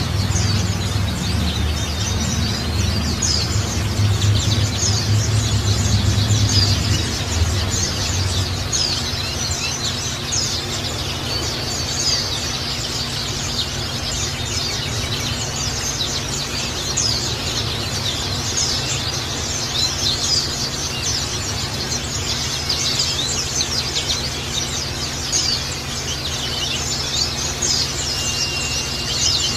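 Water trickling and splashing steadily while many small birds chirp and twitter over it, with a short steady whistled note near the end.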